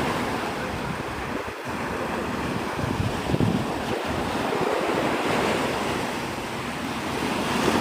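Surf breaking and washing on the beach, a steady rush that swells and eases, with wind buffeting the microphone.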